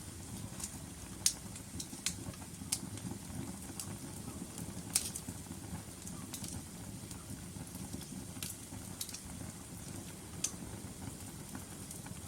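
Logs burning in a fireplace: a steady low rumble of flames with irregular sharp crackles and pops, a few of them louder, about a second and five seconds in.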